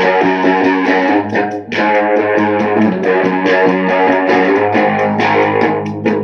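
Electric guitar playing the blues over a steady bass line and drum beat.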